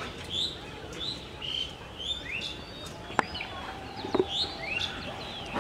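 Birds calling in short high chirps, repeating about twice a second, with a couple of sharp clicks about three and four seconds in.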